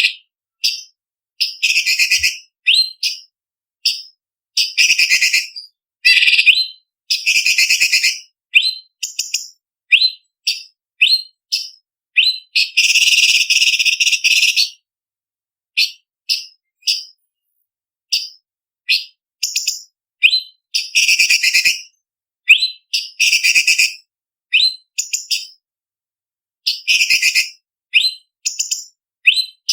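Orange-bellied leafbird (cucak cungkok) singing in quick high-pitched bursts of sharp whistled and chattering notes, with short pauses between. About halfway through comes one longer unbroken stretch of chatter.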